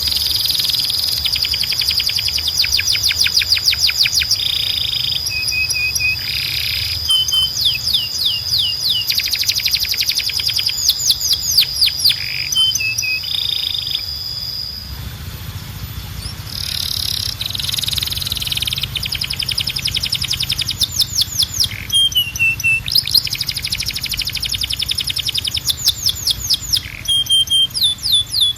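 Domestic canary singing a long song of rapid trills and fast repeated sweeping notes, broken by short held whistles.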